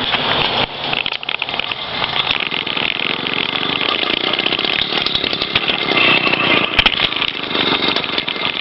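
Two-stroke motorized-bicycle kit engine being clutch-started while coasting downhill, firing in rapid, ragged pulses without settling into a clean run. The choke has been left on.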